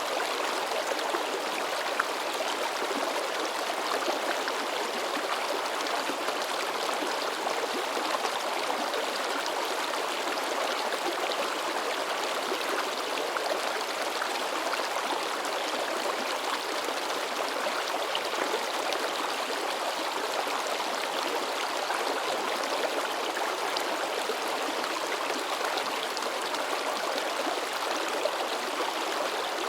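A shallow river running over rocks, babbling and splashing steadily with small splashes throughout.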